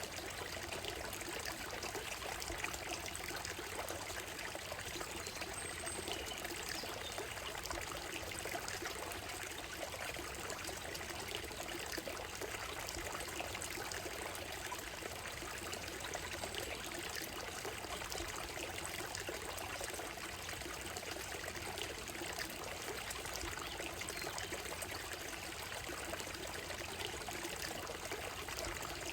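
Shallow stream running steadily over a gravel and stone bed, a continuous trickling babble.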